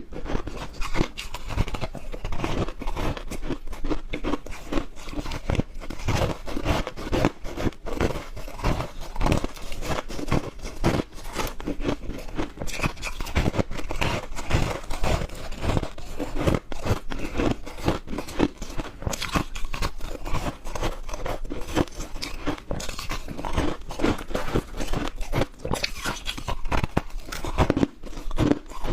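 Repeated bites into soft, chunky freezer-frost ice, a dense run of close crunching and crackling with no pauses.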